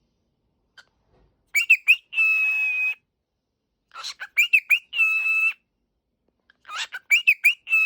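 Cockatiel whistling three phrases, each a few quick chirping notes followed by one long held whistle, with pauses between them.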